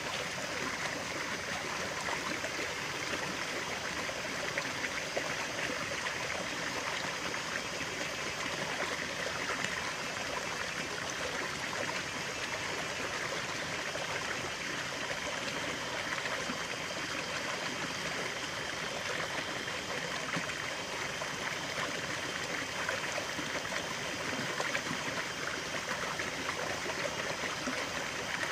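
A stream of running water, flowing and trickling steadily, with no pauses or changes.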